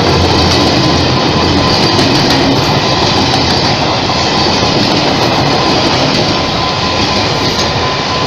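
A train running on the rails: a loud, steady rush of rolling noise with a thin steady whine through it.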